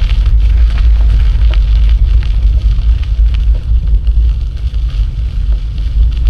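Wind buffeting the microphone during a bicycle ride: a loud, steady low rumble with scattered crackles and clicks from the ride.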